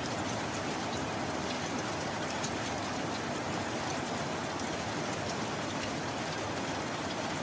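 Steady heavy rain: a dense, even hiss of falling water with scattered individual drop ticks, and no thunder.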